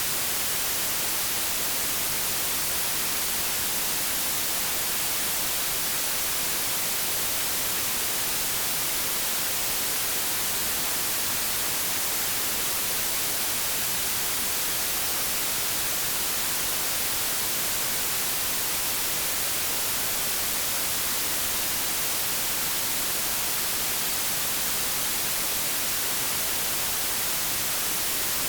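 Steady white noise static, an even hiss weighted toward the high end, like an untuned television or radio.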